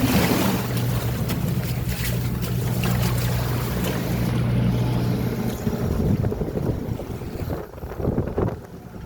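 A ship at sea in heavy waves: a steady low engine hum under the wash and splash of water, with wind buffeting the microphone. The engine hum drops out about two-thirds of the way through, leaving gusty wind and water noise.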